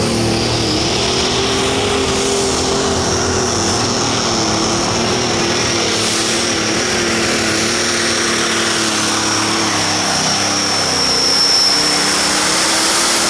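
Turbocharged diesel pro stock pulling tractor running at full throttle under load down the track. The engine note wavers slightly, with a steady high turbo whistle over it.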